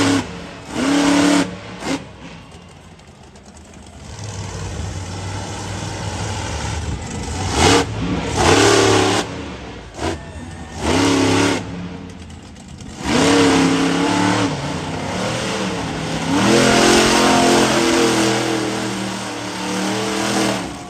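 Monster truck engine revving in repeated loud bursts of throttle, easing back between them, with a longer stretch of throttle near the end.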